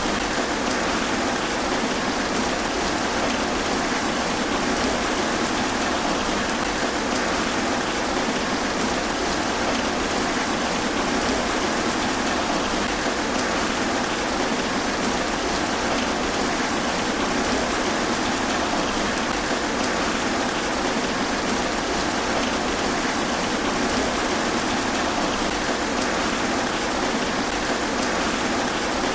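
Steady heavy rain falling through trees onto leaves, a constant even hiss with no thunderclaps.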